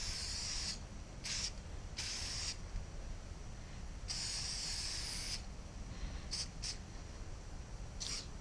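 Aerosol spray paint can hissing in a series of bursts as a graffiti signature is sprayed: a few longer sprays of up to about a second, then short quick puffs near the end.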